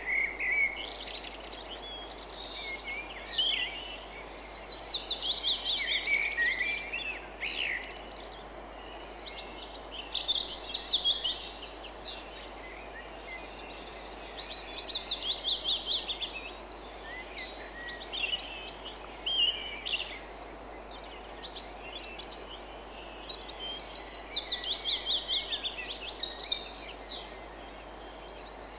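Several songbirds singing, with trilled and chirping phrases repeating every few seconds, over a steady background hiss.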